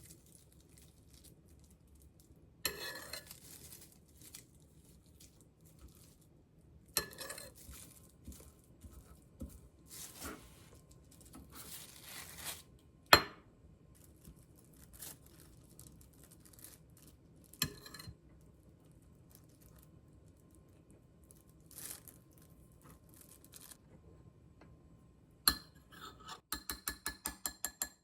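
Kitchen handling sounds: dishes, glassware and utensils clinking and knocking now and then, with one sharp knock about halfway through. A run of quick, even ticks, about five a second, starts near the end.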